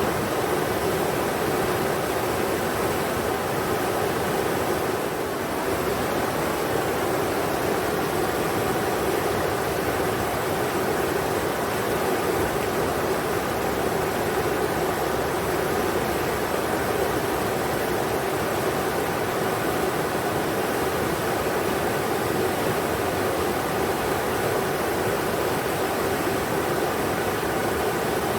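Steady rushing of the Englishman River's flowing water, an even noise with no breaks.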